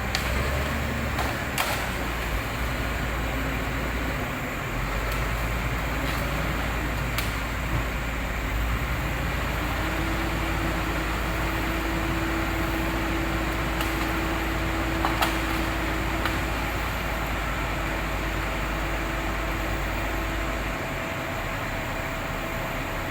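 Komatsu D85SS-2 crawler bulldozer's diesel engine running steadily at work, with a few sharp knocks and a steady whine through the middle stretch.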